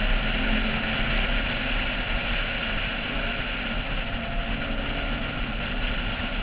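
Wind rumbling over a roof-mounted camera at track speed, with a Porsche 996's flat-six engine running underneath at steady revs.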